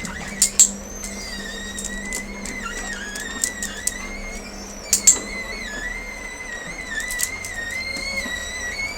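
Window shutters being run: a continuous, wavering high whine over a steady low hum. Sharp clicks come in pairs about half a second in and again about five seconds in, with a few fainter ones between.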